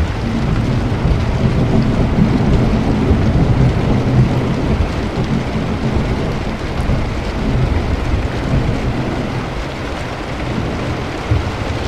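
Steady heavy rain with a low rolling rumble of thunder that builds over the first few seconds and then slowly fades.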